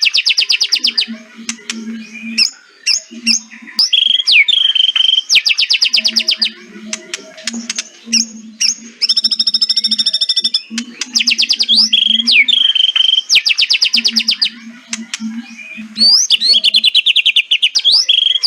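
White-rumped shama (murai batu) calling: bouts of rapid rattling 'kretekan' clicks, each about a second long, alternating with short whistled notes and down-slurred whistles, repeating throughout. A faint low hum comes in some of the pauses.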